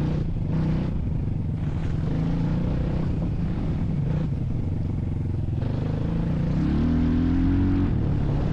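A motor vehicle's engine running steadily under way, with its pitch rising briefly about seven seconds in.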